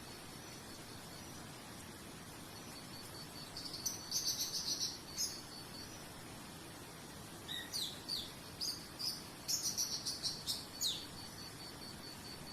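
Nature ambience: an insect chirps in a steady rapid pulse throughout, while a bird calls in two loud bouts of quick chirps, trills and falling notes, one about four seconds in and a longer one from about seven and a half to eleven seconds in, over a soft background hiss.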